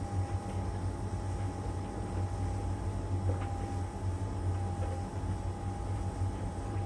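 LG heat pump tumble dryer running its drying phase: a steady low hum with a thin steady whine over it and a few faint ticks as the load tumbles.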